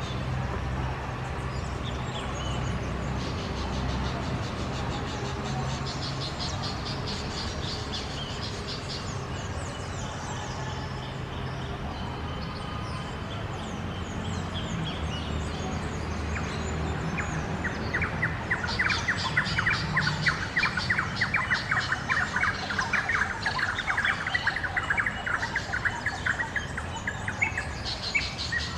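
Wild birds singing and chirping: scattered high chirps, then a long rapid run of short repeated notes in the second half, over a steady low background rumble.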